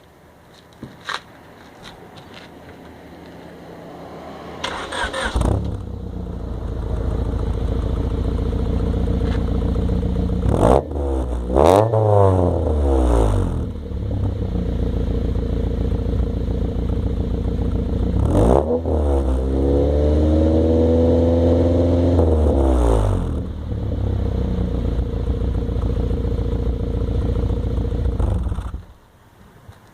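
1998 Honda Civic's four-cylinder engine, heard through an exhaust with its baffle fitted. It starts about five seconds in and idles, is blipped up once briefly, then revved and held for a few seconds before falling back to idle, and is switched off near the end.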